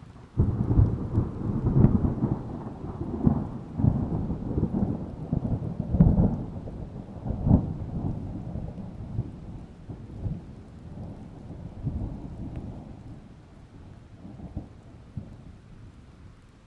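A long peal of thunder breaks suddenly about half a second in. It rumbles deep with repeated cracks and surges for several seconds, then slowly dies away.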